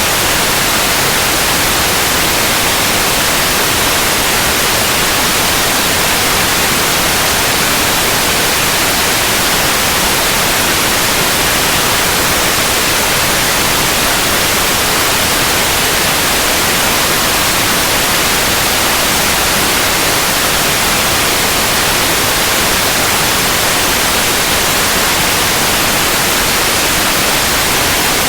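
Continuous white noise: a steady, even hiss across the whole range, with no changes.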